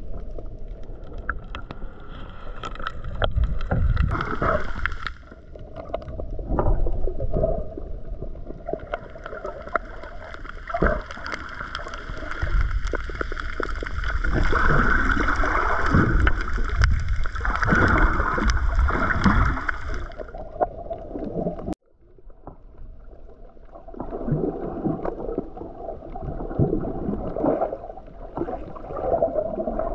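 A boat under way: its engine running with a steady whine, water splashing and rushing against the hull, and rough gusts on the microphone. The sound drops out suddenly a little after twenty seconds in, then picks up again.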